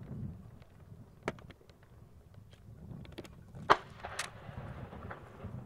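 Distant fireworks going off: a sharp bang about a second in, a louder one past the middle followed by a brief crackle, and scattered smaller pops over a low rumble.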